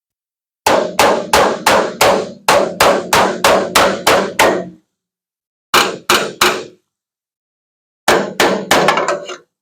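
Body hammer striking the sheet-metal bed panel of a 2015 Ford F-350 Super Duty to work out a dent, each blow ringing briefly. Three runs of quick blows: about eleven at roughly three a second, then three, then about six near the end.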